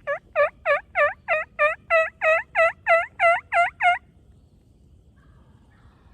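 A series of turkey yelps: thirteen loud, evenly spaced notes, about three a second, each falling and then lifting in pitch, stopping after about four seconds.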